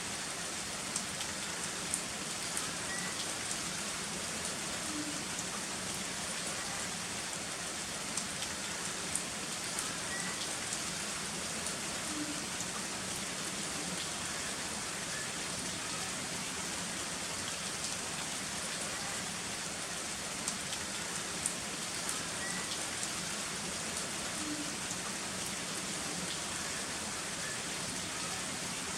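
Heavy rain falling steadily, a dense hiss of rain with scattered sharp drip ticks.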